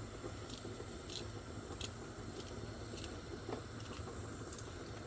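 A pot of fish heating on the stove with a little water: a steady low hum with scattered light sizzling ticks.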